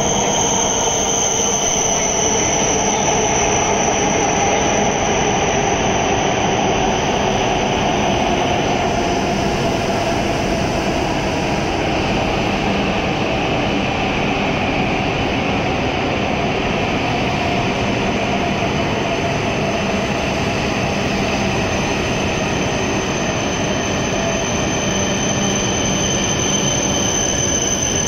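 E7 series Shinkansen train pulling into the platform and slowing as its cars pass: a steady, loud rolling rumble with a motor whine falling in pitch as it slows. A high steady squeal rides over it, fading about nine seconds in and returning near the end.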